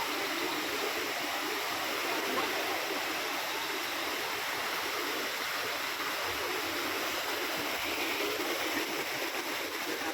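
River water rushing steadily through a breached dam.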